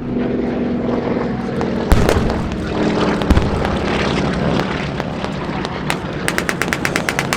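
Propeller warplane engine drone as a warbird flies over, with two loud sharp bangs about two and three seconds in. Near the end comes a rapid crackle of pyrotechnic pops, about ten a second.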